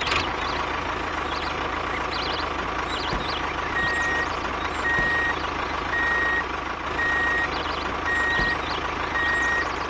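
Truck engine running steadily while a reversing alarm beeps, one tone about once a second, starting a few seconds in.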